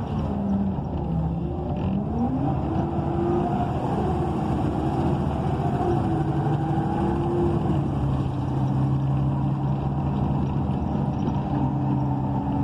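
Cummins Westport ISL G natural-gas engine and Allison B300R transmission of a 2012 ENC EZ Rider II bus, heard from inside the cabin while the bus is under way, over steady road noise. A pitched whine rises about two seconds in and then holds steady.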